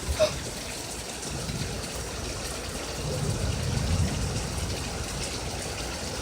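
Heavy rain pouring steadily in a thunderstorm, with a low rumble that swells and fades about three to four seconds in.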